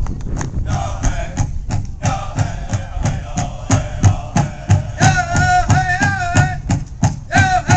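Powwow drum beaten in a steady rhythm of about three strokes a second. High-pitched singing comes in about five seconds in.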